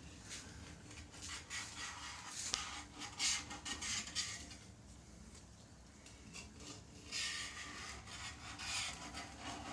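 Irregular scraping and rubbing strokes on a 1979 Yamaha XS750 Special's fuel tank as its paint is being stripped off, coming in two busy stretches with a lull around the middle.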